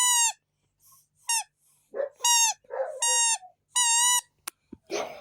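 Toy whistle blown in a series of short, clear toots, about five. Each toot is a steady high note that droops in pitch as it ends, with breathy puffs in between.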